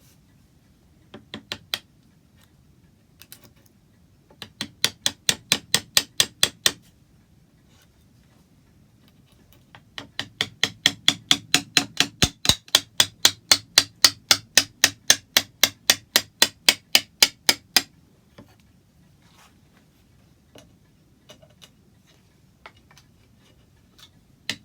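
Rapid hammer blows on the wooden top rail of a rosewood chair, knocking the loose rail off its dowelled joint. There are a few single knocks, then a short run and a longer run of quick, even strikes, about five a second.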